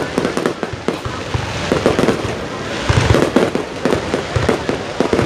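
Aerial fireworks display going off: a rapid, irregular run of bangs and crackles, with a deeper, heavier boom about three seconds in.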